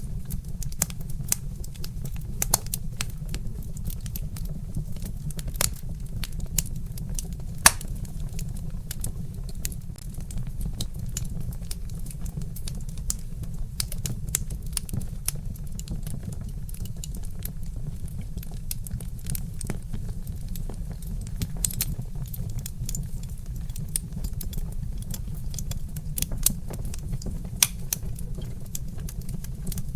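Wood fire crackling, with frequent irregular sharp pops and snaps over a steady low rumble. One louder pop comes about eight seconds in.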